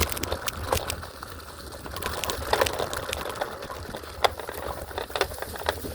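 Electric scooter rolling over grass and rough ground, its frame rattling with irregular clicks and knocks over a low rumble.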